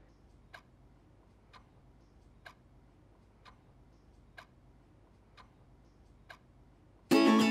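A clock ticking faintly, about once a second. Near the end, loud acoustic guitar music starts.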